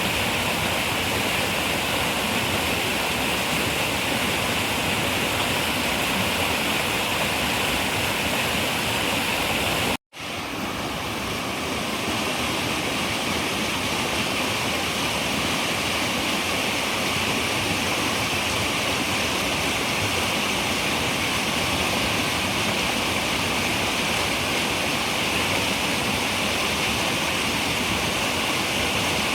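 Running river water, a steady rushing flow. About ten seconds in it cuts out briefly to silence, then fades back in over a second or two, typical of an edit join.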